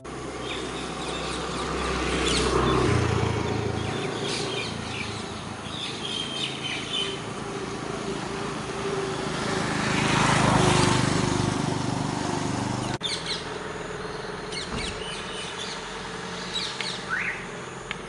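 Small birds chirping in short calls over steady outdoor background noise that swells twice, about two seconds in and again around ten seconds; the background drops abruptly about thirteen seconds in.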